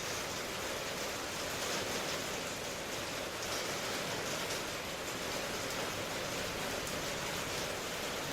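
Steady rain falling, an even, unbroken hiss with faint scattered drop patter.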